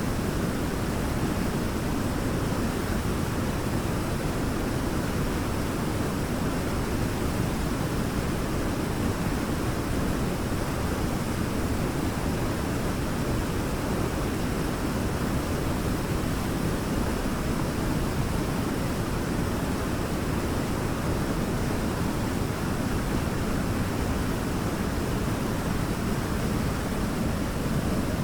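Waterfall: a steady, unbroken rush of falling water, strongest in the low range, without any change.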